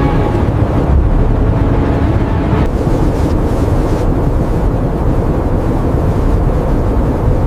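Strong blizzard wind blowing steadily as a dense, low rush of noise.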